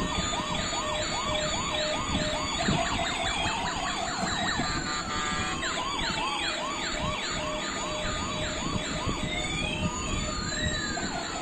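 Electronic sirens of toy police cars sounding together. A quick repeating whoop overlaps slower wails that rise and fall over a couple of seconds.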